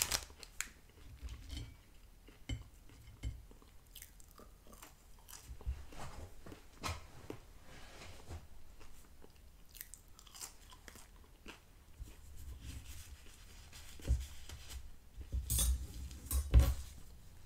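Close-up mouth sounds of a person chewing McDonald's french fries: soft wet chewing with small crunches and mouth clicks, and a few louder clicks near the end.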